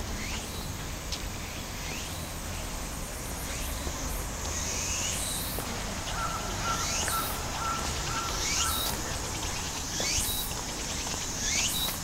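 A bird calling: a high note sweeping sharply upward, repeated about every one and a half to two seconds and getting louder after a few seconds, with a short run of steady piping notes midway. A steady low outdoor rumble lies underneath.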